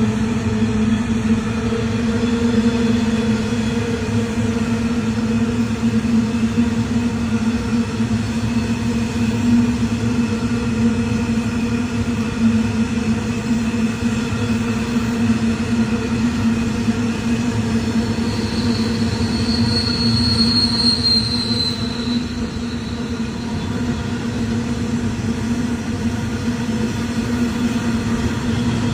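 Train running with a steady hum, and about two-thirds of the way through a high wheel squeal that lasts a few seconds, falling slightly in pitch.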